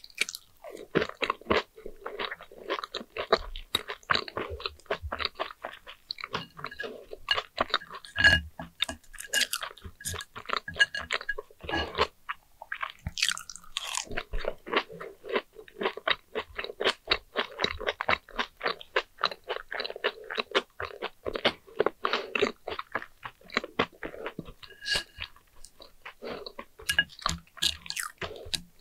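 Someone biting and chewing crunchy fried sweet potato slices cooked with sugar, in a continuous run of crisp crunches with a short break about twelve seconds in.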